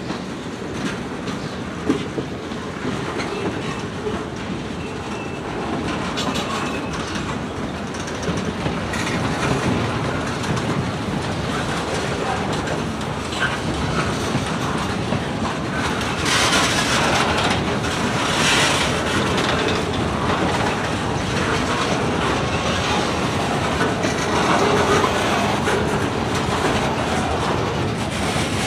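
Freight train rolling past, its wheels clacking over the rail joints, the noise growing louder as the cars go by.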